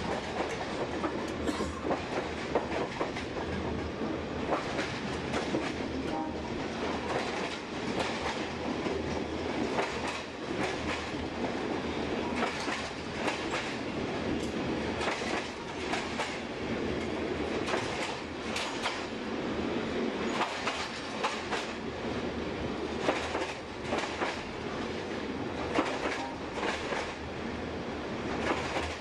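Train running over jointed track, heard from on board: a steady rumble with the clickety-clack of wheels clicking over rail joints.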